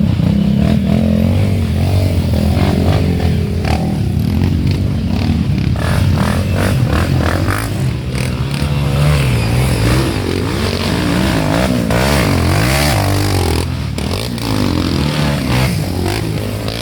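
Off-road trail motorcycle engines revving up and down, the pitch rising and falling repeatedly, with short clattering knocks mixed in.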